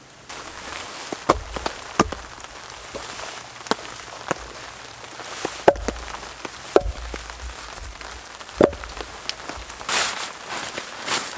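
Steady rain falling, with about a dozen irregular sharp knocks and snaps over it.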